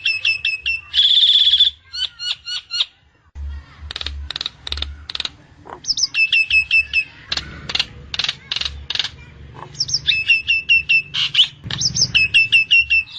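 Jalak Nias starling singing: repeated quick runs of sharp whistled notes that step down in pitch, broken by clicks and one harsh buzzy note about a second in.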